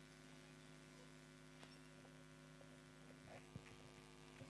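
Near silence with a faint steady electrical hum, broken by a few faint clicks.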